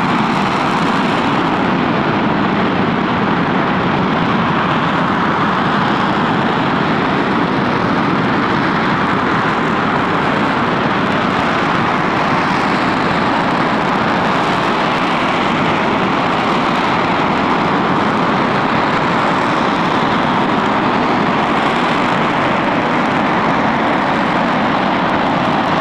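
Rocket engine firing steadily on a test stand: a loud, even rush of noise that holds without change in level or pitch.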